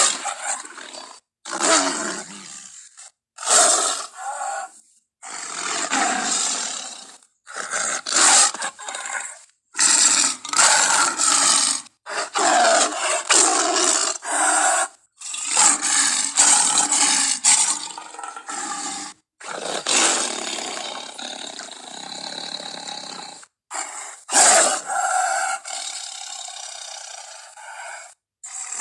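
A run of about ten separate big-cat roars, growls and snarls, taken from lion, tiger and leopard recordings and strung together as sound-effect clips. Each call breaks off sharply into a brief dead silence before the next one starts.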